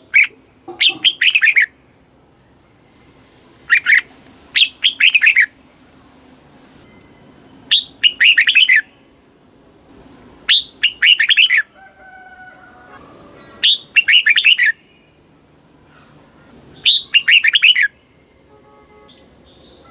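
Red-whiskered bulbul singing: short, bright warbled phrases of several quick notes, repeated about every three to four seconds. Fainter thin bird calls are heard in the gaps between phrases.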